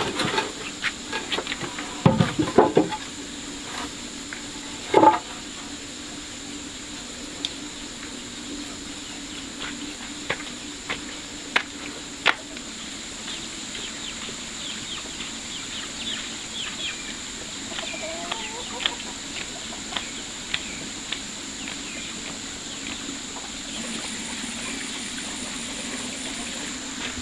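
Chickens clucking and calling, with scattered knocks and clicks over a steady hum. A few louder knocks come in the first few seconds.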